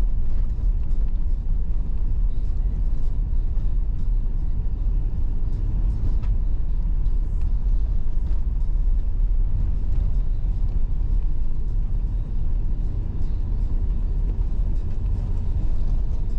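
Toyota Land Cruiser running, a steady low rumble with faint scattered small clicks.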